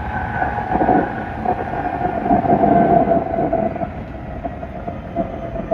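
Tsukuba Express train running, with a steady motor whine over the rumble of the wheels on the track.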